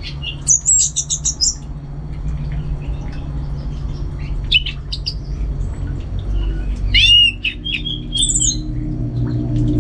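Orange-headed thrush (anis merah) singing in short, varied phrases of high notes. There is a fast run of repeated notes about a second in, a few more near the middle, and curved whistled notes around seven to eight seconds in, all over a steady low hum.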